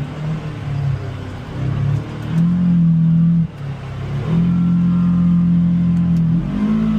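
Polaris Xpedition UTV engine working through the throttle: it rises into a loud surge of about a second, eases off, then surges again for about two seconds and steps up in pitch near the end.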